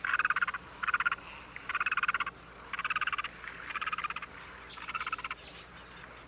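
Frogs calling from a wetland: a series of short, rapidly pulsed trills, each about half a second long, repeating roughly once a second.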